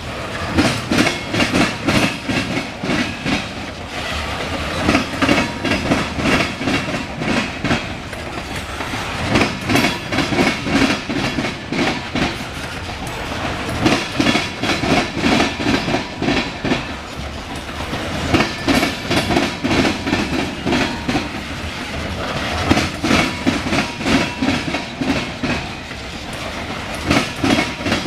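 CSX local freight train rolling past, its wheels clicking over rail joints in clusters every few seconds as each car goes by, over a steady rumble.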